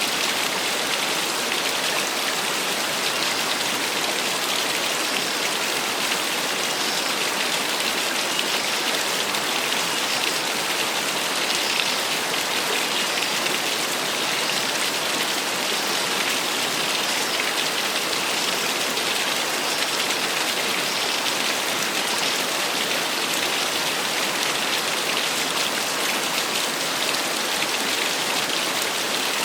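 Small waterfall splashing steadily: an even, unbroken rush of falling water with a bright, hissing splatter.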